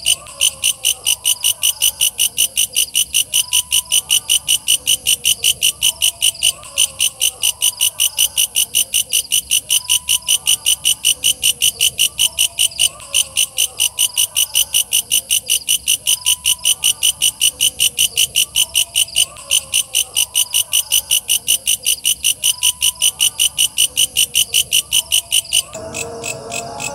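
Walang kecek katydid calling: a loud, shrill train of sharp pulses, about three to four a second, evenly repeated. A fainter warbling runs underneath. About a second before the end the pulsing weakens and a different sound comes in.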